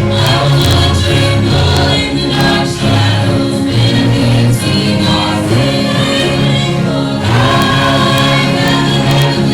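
Congregational hymn singing led by a praise trio, with instrumental accompaniment and a steady bass line.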